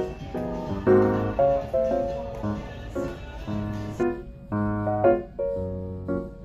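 Background music: a gentle piano melody of separate notes and chords.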